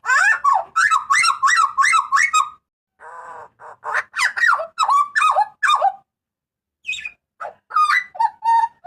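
Butcherbird (jagal papua) giving loud, harsh repeated calls in three quick runs of about four notes a second, with short pauses between the runs.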